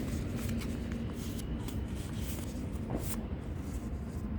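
A sheet of A4 paper rustling and crinkling as a paper aeroplane wing is folded and creased by hand, with a few short crackles.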